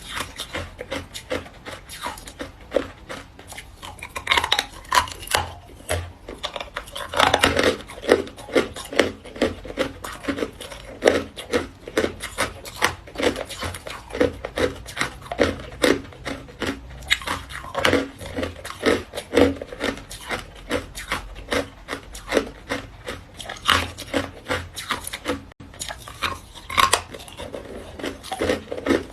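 Hard white ice being bitten and chewed: a continuous run of crisp crunches, several a second, with louder clusters now and then.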